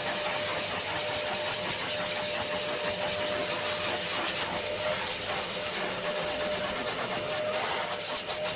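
A motor running steadily, with a constant hum over a dense hiss.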